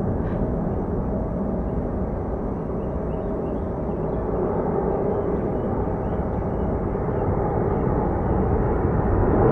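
Jet engines of a widebody airliner, a steady rushing roar that grows louder near the end.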